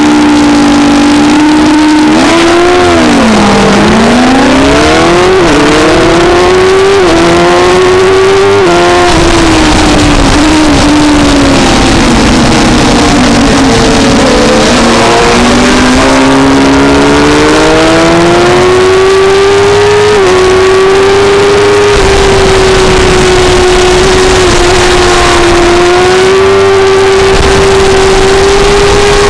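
600cc race motorcycle engine heard on board, loud and close, pulling hard and climbing in pitch with several abrupt drops at gear changes, and falling away and building again as the bike slows and accelerates. Wind rushes over the microphone throughout.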